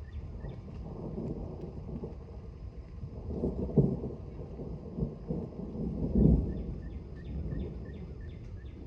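Distant thunder rolling, a low rumble that swells twice to louder peaks, around the middle and again about two-thirds through, then dies back.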